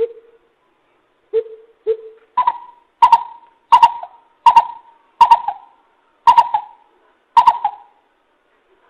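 Greater coucal calling: three low hoots, then a slower series of about eight higher, hollow notes, each about 0.7 s apart.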